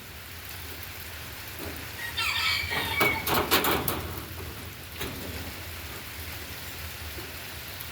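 Steady rain falling, with a short high-pitched call about two seconds in and a cluster of sharp clicks just after.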